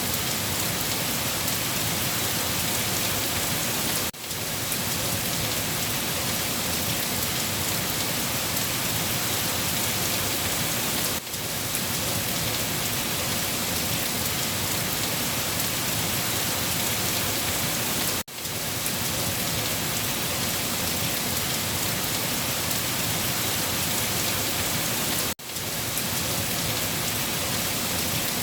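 Steady rain falling, an even, continuous hiss of water. It cuts out for a split second about every seven seconds, four times.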